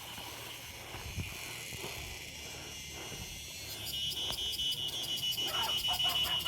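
Insects calling with a thin, high, steady trill. About four seconds in it grows louder and turns into a rapid, even pulsing buzz.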